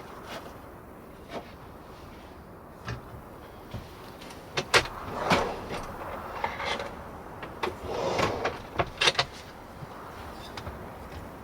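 Food prep with cookware and utensils: scattered clicks and knocks, with short scraping rustles about five and eight seconds in.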